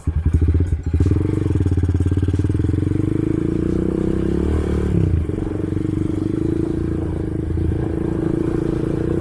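Motorcycle engine running as it is ridden, picked up by a camera on the rider's helmet. The low rumble pulses in the first second, then steadies, with a brief change in pitch about halfway through.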